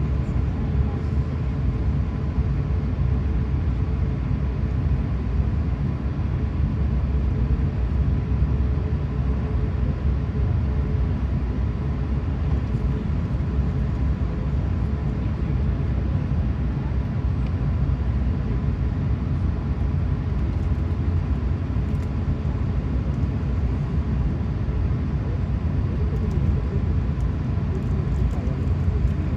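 Steady low rumble of an Airbus A380-800's Rolls-Royce Trent 900 engines and airflow, heard inside the passenger cabin, with a faint steady hum over it.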